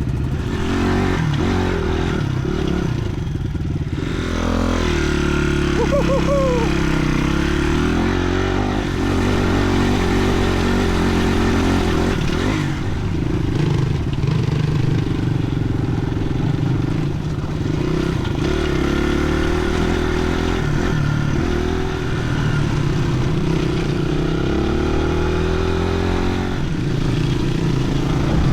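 Crossfire dirt bike engine running steadily while riding. The engine note falls and climbs again a few seconds in, and once more near the end, as the rider eases off and pulls away.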